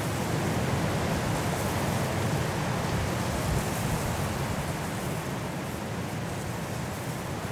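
Strong wind blowing through trees in a snowstorm: a steady rushing noise with a heavy low rumble, easing slightly near the end.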